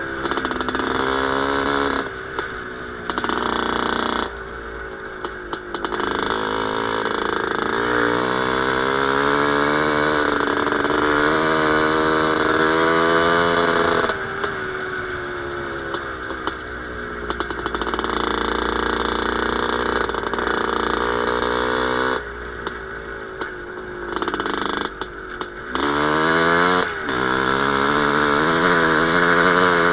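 Motorcycle fitted with an IZh Planeta Sport single-cylinder two-stroke engine running, its revs rising and falling repeatedly, with several brief drops where the throttle comes off.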